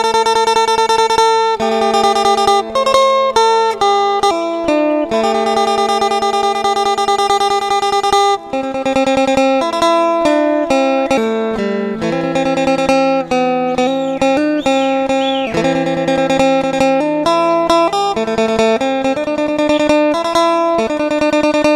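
Background music: a guitar playing a melody of plucked notes, with a few bent notes in the middle.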